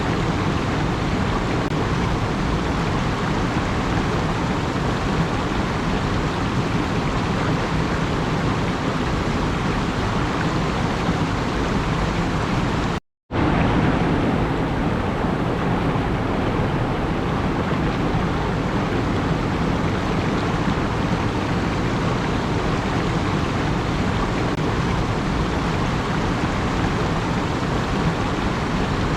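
Steady rushing noise without any pitch or rhythm. It cuts out suddenly for a split second about thirteen seconds in, then resumes unchanged.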